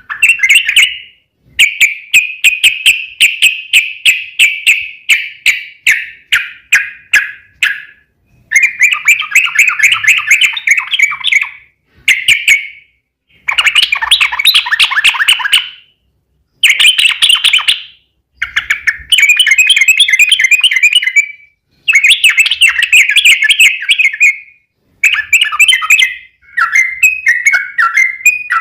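Yellow-vented bulbul (trucukan) singing: loud bubbling phrases of rapid notes, each one to three seconds long, repeated with short pauses between them.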